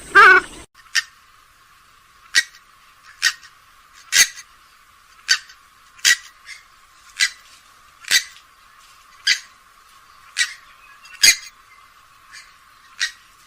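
Grey-headed swamphen calling. A loud, fuller call cuts off abruptly under a second in. Then comes a steady series of short, sharp, high calls about once a second.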